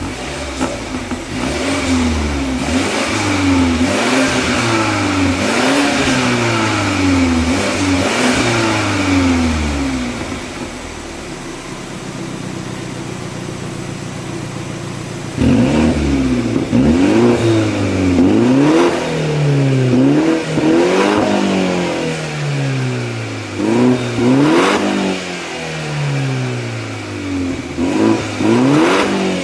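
Exhaust of a 2018 BMW 530i's 2.0-litre turbocharged four-cylinder through an aftermarket Maintec valved (variable) muffler, revved repeatedly in stationary blips, rising and falling in pitch. About ten seconds in it settles to a steadier idle, then about fifteen seconds in it jumps back into a run of quick sharp revs.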